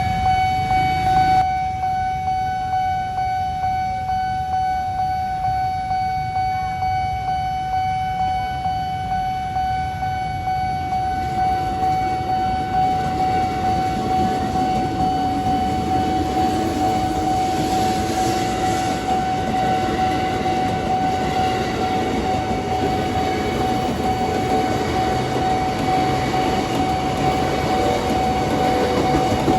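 Level-crossing warning alarm sounding a steady electronic tone while a train passes over the crossing, its rumble growing louder about halfway through.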